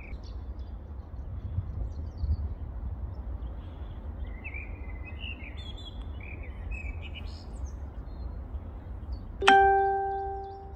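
Birds chirping over a low steady rumble, then a single ringing metallic strike, like a bell, about two-thirds of the way in that dies away slowly and is the loudest sound.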